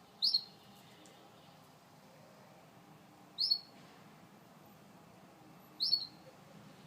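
Gloster canary giving short single chirps, three times, roughly two and a half seconds apart, each high and brief, over a faint hiss.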